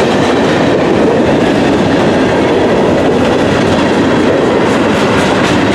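Freight train rolling past at close range, its wheels clattering over the rail joints in a loud, steady rumble.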